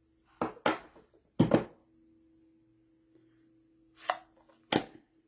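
A stamp is tapped onto an ink pad and pressed down on the table, giving about five sharp knocks: a pair about half a second in, a louder double knock around a second and a half, and two more near the end.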